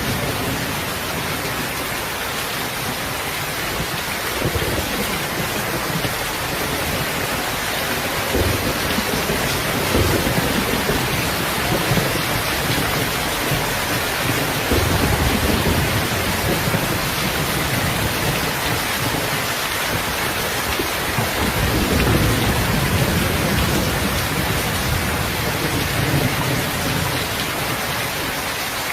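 Steady rain, a dense even hiss, with low rumbles that swell and fade every few seconds.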